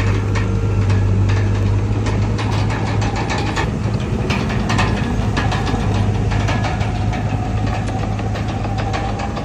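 Bulldozer's diesel engine running steadily, with frequent sharp clanks and knocks throughout.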